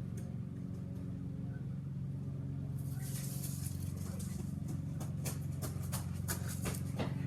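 A steady low mechanical hum throughout. A hiss comes in about three seconds in, and from about five seconds in regular quick thumps, like running footsteps, come faster toward the end.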